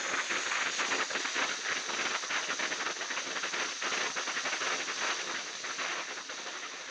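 Steady hissing, rushing noise with a fine crackle through it, slowly fading toward the end.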